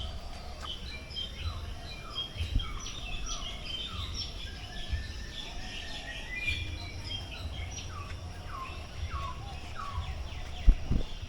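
Many birds chirping and calling at once in an aviary, with a short falling note repeated about twice a second through the middle. A low rumble runs underneath, and two thumps come near the end.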